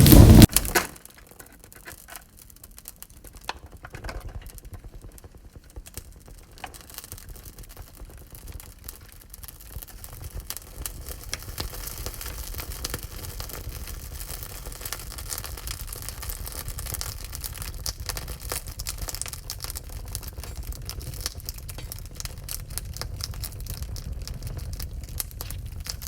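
Wood fire crackling in a wood-burning stove: a steady stream of small sharp pops and snaps over a low rumble. A loud rushing noise cuts off abruptly within the first second.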